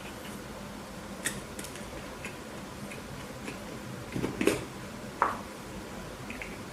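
Close-miked eating sounds from a burger mukbang: soft wet mouth clicks and chewing, with a short louder crunchy burst about four seconds in and a sharp click just after, over a steady low hum.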